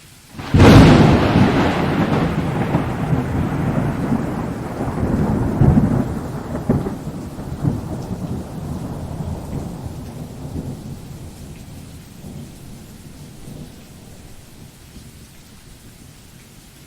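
A thunderclap breaks suddenly about half a second in, then rolls into a long rumble with a few louder swells, fading over about ten seconds back to a steady hiss of rain.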